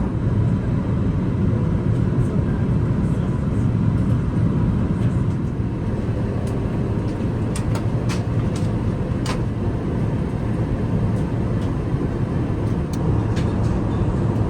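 Steady low rumble of an Airbus A380 passenger cabin in flight, with a faint steady tone and scattered light clicks.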